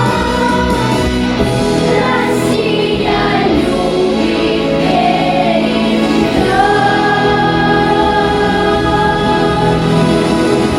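Choir singing with instrumental accompaniment, the voices holding long sustained notes.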